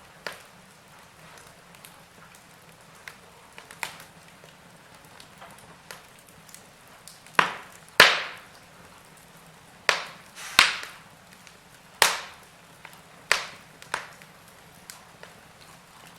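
Wood fire in a fireplace crackling: sharp pops and snaps at irregular intervals, every second or two, over a faint steady hiss, with the loudest pops in the middle.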